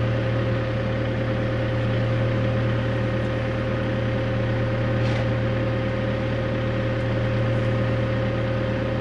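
Heavy-equipment diesel engine running at a steady speed, with a steady whine above its hum.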